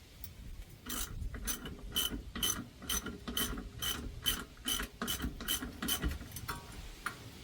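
Hand socket ratchet being worked on a bolt: a run of about a dozen even clicks, about two a second, stopping about six seconds in.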